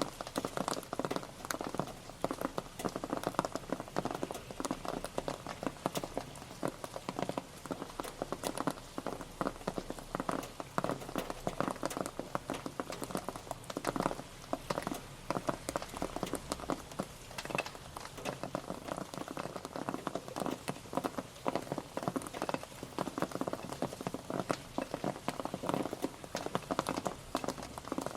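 Steady rain pattering on a surface, with many irregular individual drop ticks over an even hiss.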